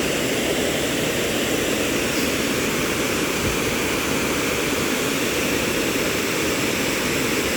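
Waterfall rushing: a steady, full roar of falling water.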